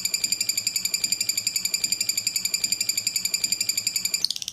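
Lovebird singing a long, continuous rapid chattering trill of about twenty pulses a second. Near the end it shifts abruptly to a higher, faster trill.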